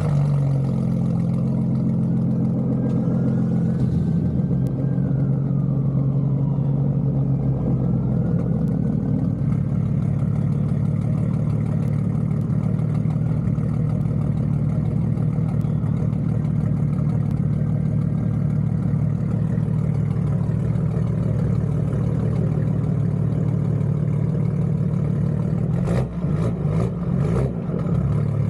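BMW G80 M3's twin-turbo inline-six running steadily at low, even revs through an IRL full 3.5-inch single-pipe exhaust with its valve fully open. A few sharp clicks come near the end.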